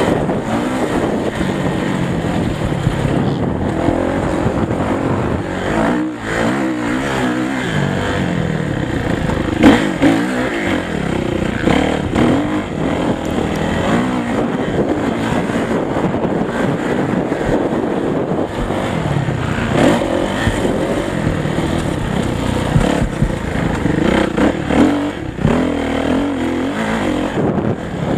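Motocross motorcycle engines revving up and falling back again and again as the bikes ride the track, with pitch swinging up and down throughout.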